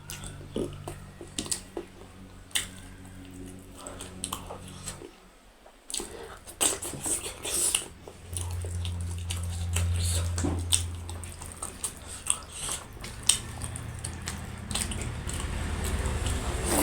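Close-up eating sounds: chewing and biting, with many small clicks and smacks scattered throughout.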